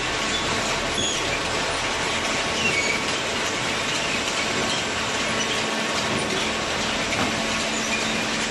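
Cardboard baler and its feed machinery running: a steady mechanical noise with scattered short, high squeaks.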